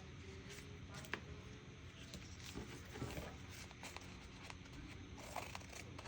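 Faint rustling and light taps of paper and washi tape being handled, with one sharper click about a second in.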